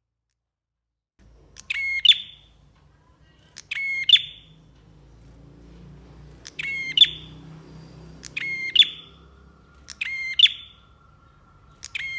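Prinia (prenjak) calling: a loud, fast rattling trill that ends in a sharp note. It starts about a second in and repeats roughly every two seconds, six times, the last one cut off at the end.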